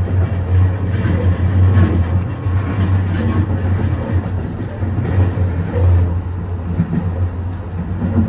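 Senseki-Tōhoku Line HB-E210 hybrid diesel railcar running at speed between stations: a steady low rumble with rail and running noise.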